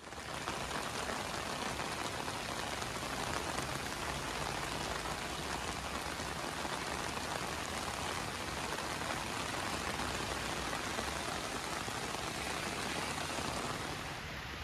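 Heavy rain falling steadily on a flooded road, an even hiss with no break. It drops slightly in level near the end.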